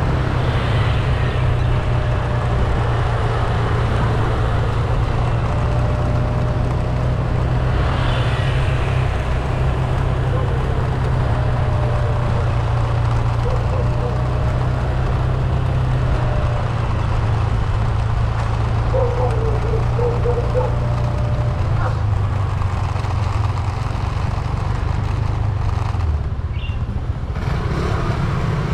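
A vehicle driving along a road: a steady low rumble of engine and road noise that holds at one level throughout.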